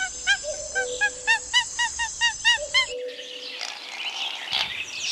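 A quick series of short chirping calls, about four a second, each a brief rise and fall in pitch, stopping abruptly about three seconds in. After that comes a hissy outdoor background with faint scattered calls.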